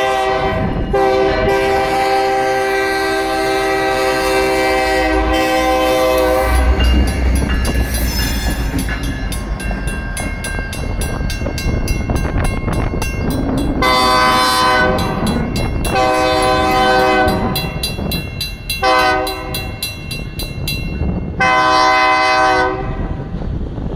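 BNSF diesel locomotives sounding their air horn, several notes at once: one long blast, then the heavy rumble of the engines passing close by with a mechanical crossing bell ringing in fast, even strokes, then the long-long-short-long grade-crossing horn signal.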